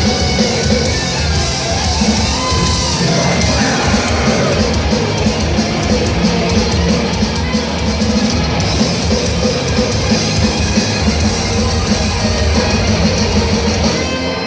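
Heavy metal band playing live, loud and continuous: distorted guitars and a drum kit in a large hall.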